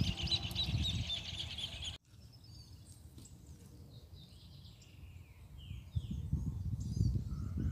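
Small birds chirping: a dense run of quick high chirps for about two seconds, then the sound cuts abruptly to fainter, scattered calls. A low rumble comes in about six seconds in.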